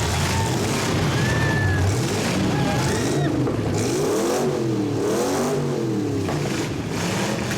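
Monster truck engine revving up and down over and over, its pitch rising and falling in repeated swells.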